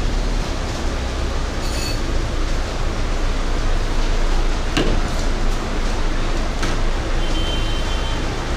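Heavy rain in strong wind: a loud, steady hiss of rain with wind buffeting the microphone as a low rumble, and a few brief knocks, the sharpest a little under five seconds in.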